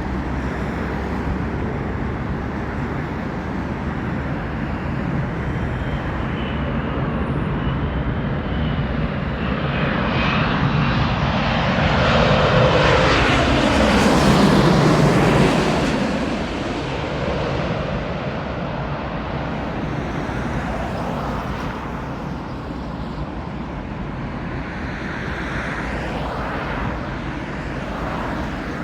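Airliner on approach passing overhead. Its engine noise grows to a peak about halfway through, the pitch falls as it goes by, and then it fades.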